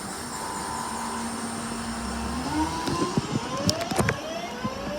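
Class 323 electric multiple unit pulling away, its traction motors whining. The whine holds one steady note, then about halfway through starts climbing in pitch in several parallel tones as the train accelerates. Sharp clicks come from the wheels and track.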